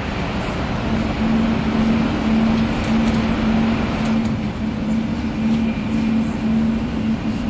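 300 Series Shinkansen running at speed, heard inside the passenger car: a steady rumble of wheels and rushing air. A steady low hum joins about a second in and holds with a slight pulsing.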